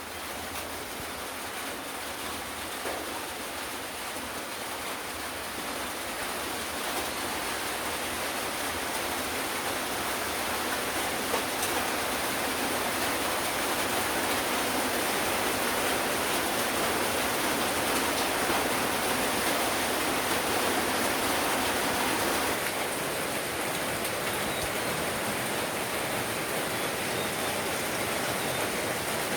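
Steady downpour of rain, an even hiss that grows heavier over the first fifteen seconds or so and eases slightly about two-thirds of the way through.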